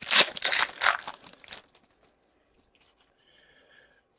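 Foil wrapper of a hockey card pack crinkling and tearing as it is opened, in a quick run of rustles for about the first second and a half, then it goes quiet.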